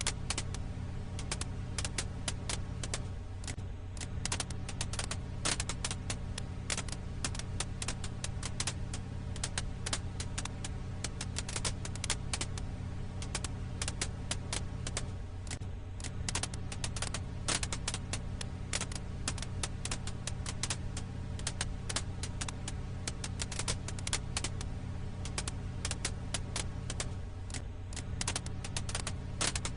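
Firewood campfire crackling: dense, irregular pops and snaps over a steady low hum, with a brief dip in the hum recurring about every 12 seconds like a loop point.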